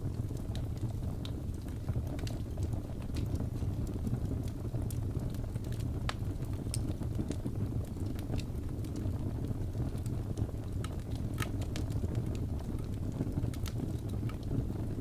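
Wood fire crackling: a steady low rumble of burning with frequent sharp pops and snaps scattered through it.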